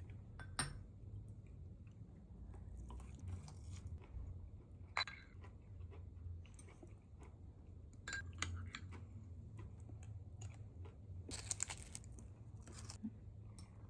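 People eating: quiet chewing and crunching of food, with a few short, sharp clicks scattered through, most of them together about eleven to thirteen seconds in.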